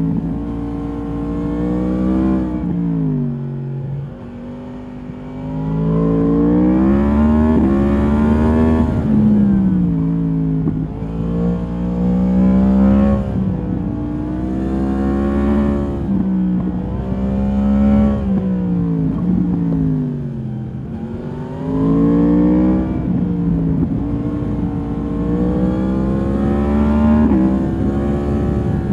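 2022 Yamaha MT-10's crossplane inline-four engine through its stock exhaust, heard from the rider's seat. The engine note repeatedly climbs in pitch as the bike accelerates, then falls away as the rider shifts or backs off the throttle. It drops lowest and quietest about four seconds in before pulling hard again.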